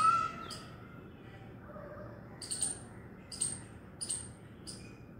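Small birds chirping: a run of short, very high chirps about once a second, with a brief high rising call at the very start.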